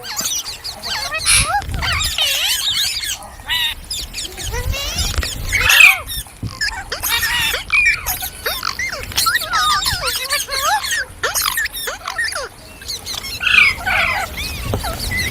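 Indian ringneck parrot chattering and calling: a busy run of quick whistles and squawks that swoop up and down in pitch, with louder squawks about six seconds in and near the end.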